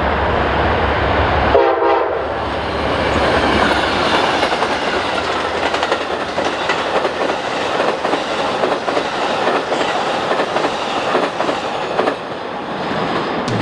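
Amtrak California Zephyr passenger train passing at speed. Its diesel locomotive rumbles, and a short horn salute sounds about two seconds in. Then comes a long steady rush of the passenger cars, with many wheel clicks over the rail joints.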